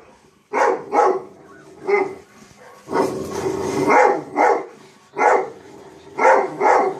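A dog barking repeatedly in short barks, singly and in quick pairs, about nine in all, with a longer drawn-out call about three seconds in.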